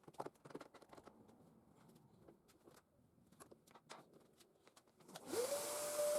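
Faint clicks and handling sounds, then about five seconds in an electric motor starts and quickly spins up. Its whine rises and settles into a steady tone over a loud rush of air and belt noise: a homemade belt grinder coming up to speed.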